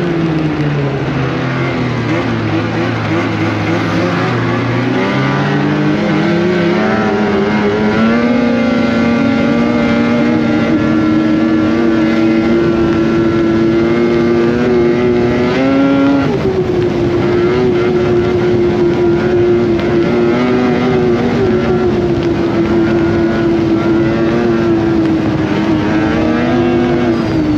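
Polaris Indy Cross Country 600 snowmobile's two-stroke twin engine running under way. Its pitch falls off the throttle over the first few seconds, climbs back about six seconds in, and then holds a steady cruising note with a brief dip midway and another near the end.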